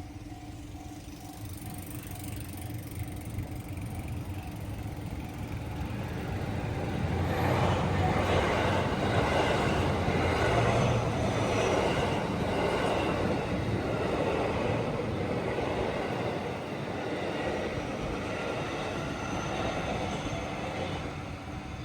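A vehicle passing by: a rushing rumble swells over a few seconds, is loudest around the middle, then slowly fades away.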